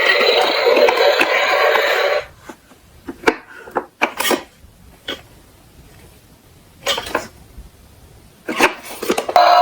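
Plastic toy trucks clattering. A dense rattling noise stops about two seconds in, followed by a handful of separate knocks and clicks.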